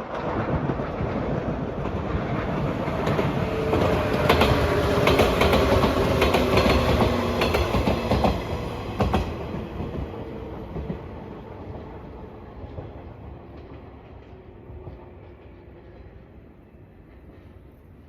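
Train passing at speed: the rumble of its wheels builds to a peak with a rapid clickety-clack over the rail joints, then fades steadily as it moves away.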